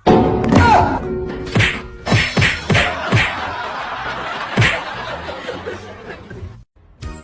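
A run of sharp thuds and whacks, about half a dozen spread over a few seconds, over a noisy background that starts suddenly and drops out just before the end.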